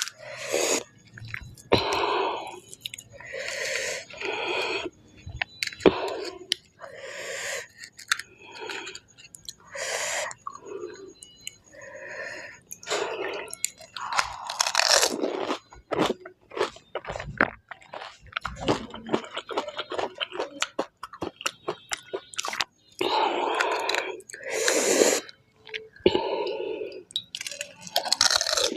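Close-miked eating of panipuri: crisp puri shells crunching between the teeth and wet chewing, with many sharp crunches and some longer hissing stretches between bites.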